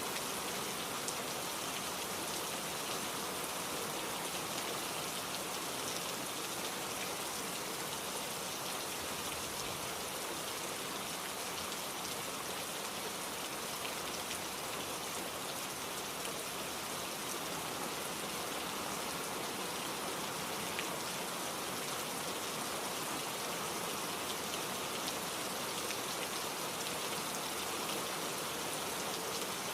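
Steady rain falling: an even hiss with scattered drop ticks and no change in strength.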